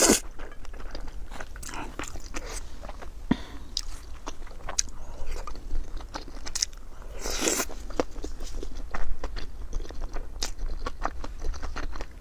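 Close-miked eating: chewing with crunching bites and many short mouth clicks, and a longer, louder noisy stretch about seven and a half seconds in.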